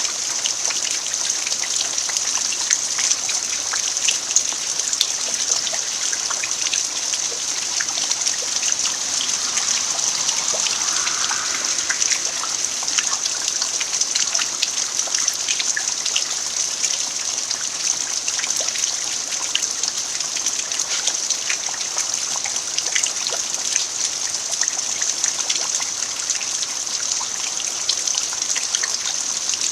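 Steady rain falling on a bare earth yard: a constant hiss with many individual drop patters scattered through it.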